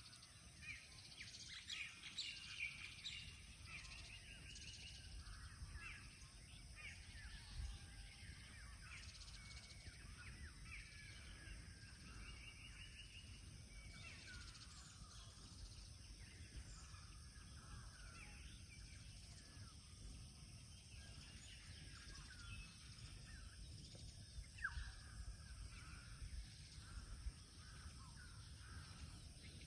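Faint mixed birdsong from several birds: many short chirps and quick trills overlapping throughout, over a low background rumble.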